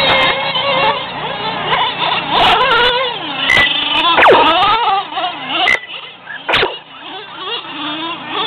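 Radio-controlled monster trucks racing, their motors whining and wavering in pitch as they speed up and slow down, with a few sharp clacks and a quick falling whine about four seconds in.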